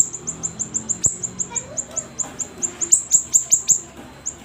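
A siri-siri songbird singing hard: a fast run of short, high, down-slurred chirps, about five a second, broken by brief pauses.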